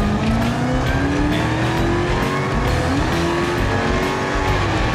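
Supercharged 707 hp Hellcrate HEMI V8 in a custom International Scout, accelerating hard: the engine note climbs steadily, changes gear about three seconds in and climbs again, then levels off at speed.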